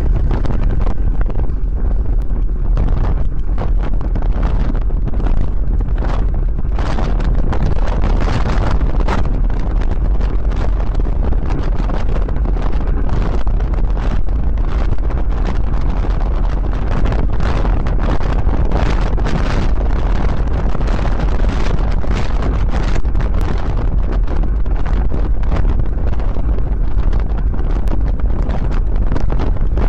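Wind buffeting the microphone of a camera riding on a moving bicycle: a loud, steady rumble with a gusty hiss above it.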